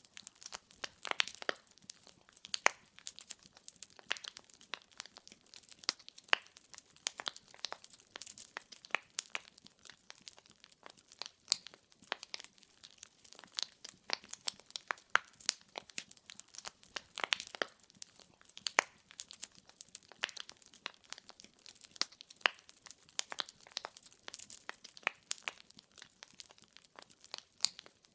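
Wood logs burning in a fireplace, crackling with frequent irregular sharp pops and snaps over a faint hiss.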